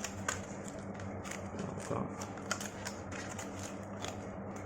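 Scattered small clicks and light rustles of replacement phone parts and their packaging being handled, over a steady low electrical hum.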